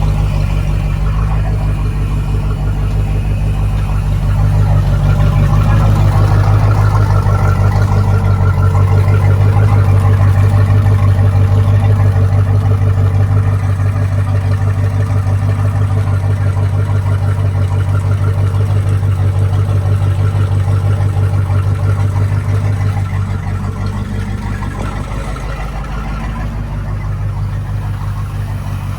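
Volvo Penta 5.7 Gi V8 marine engine idling steadily while still warming up from a cold start. It gets somewhat louder about four seconds in and settles back a little quieter about three-quarters of the way through.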